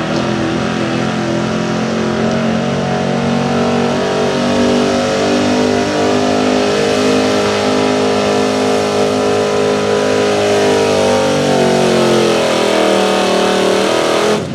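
Gasoline 4x4 pickup truck engine at full throttle pulling a sled down the track. Its pitch climbs slowly, then drops away over the last few seconds.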